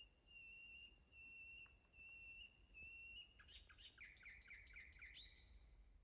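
Faint birdsong: a bird whistles about five even, steady notes, then breaks into a quick warbling run of chirps about three seconds in.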